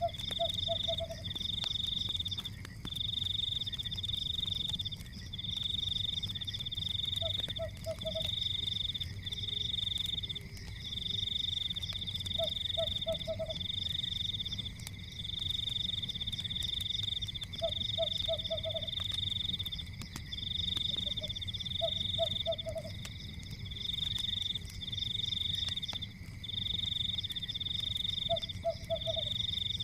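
Night-time frog chorus: a continuous high, pulsing trill with a lower croak of three or four quick pulses repeating about every four to five seconds, over a low steady rumble.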